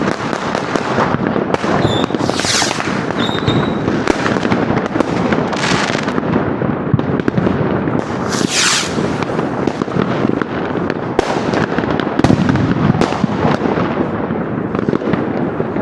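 New Year's Eve fireworks going off continuously: a dense barrage of firecracker bangs and crackling, with three louder hissing rushes about two and a half, six and eight and a half seconds in, and a short thin whistle early on.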